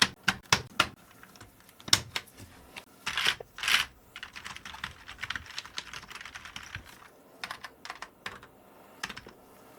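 Keys of a computer keyboard being pressed: a few loud separate clicks, a short rustling patch about three seconds in, then a run of quicker, lighter typing clicks that trails off near the end.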